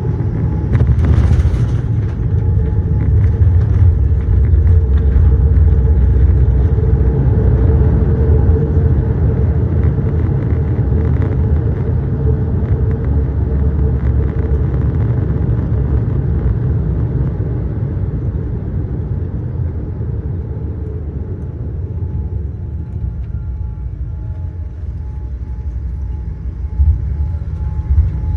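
Boeing 787-8 airliner rumbling as heard from inside the passenger cabin. The rumble swells about two seconds in, stays loud for several seconds, then slowly eases off, with a short hiss near the start.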